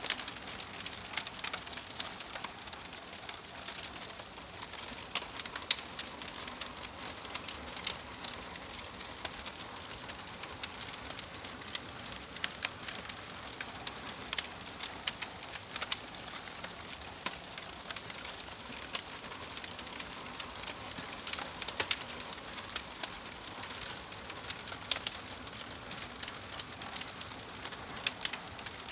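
Wood fire crackling: a steady soft hiss with frequent irregular sharp pops and snaps.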